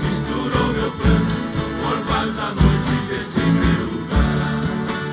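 Live Brazilian country music played by a string orchestra: strummed acoustic guitars over bass notes on a steady beat, in an instrumental passage between sung lines.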